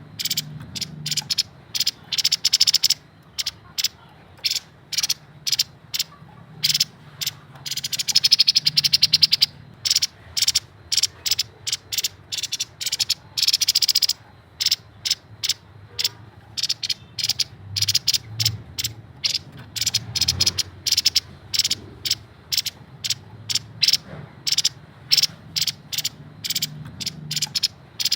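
Grey-headed babbler singing in rapid, dry chattering notes, many short notes a second, with denser trills about eight and thirteen seconds in.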